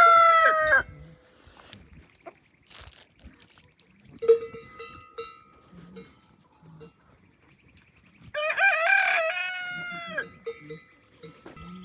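Rooster crowing: the end of one crow in the first second, then a full crow about eight and a half seconds in. Short soft clucks and small knocks fill the gap between.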